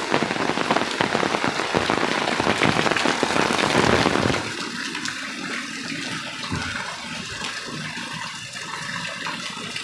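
Heavy rain pattering densely on hard surfaces. About four seconds in it drops to a softer, steady rush of rain and running water, with scattered individual drips.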